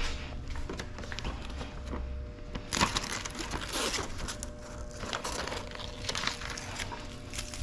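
Window tint film crinkling and crackling as the excess film is peeled away from a plotter-cut pattern. The crackles are irregular and grow louder and busier about three seconds in.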